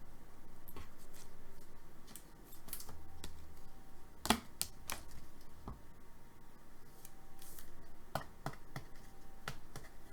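Trading cards being handled by hand: scattered light clicks, taps and slides of card stock, with a sharper tap about four seconds in.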